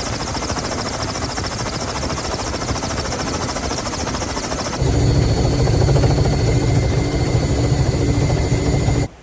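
Loud steady machinery noise with a fine rapid flutter, changing abruptly about five seconds in to a deeper running noise with a few steady tones, and cutting off suddenly just before the end.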